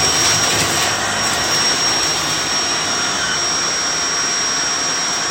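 Shark Lift-Away upright vacuum cleaner running at full speed, a steady loud motor rush with a high whine held on one pitch.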